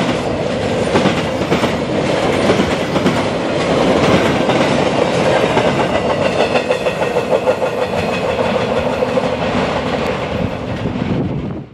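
Carnival train's railcars rolling past at speed, wheels clicking steadily over the rail joints. The sound cuts off suddenly near the end.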